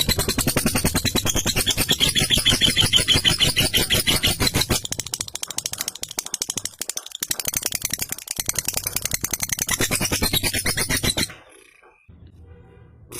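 Lovebird's long ngekek: a fast, rattling chatter of rapid pulses that runs unbroken for about eleven seconds, then breaks off suddenly, leaving it much quieter near the end.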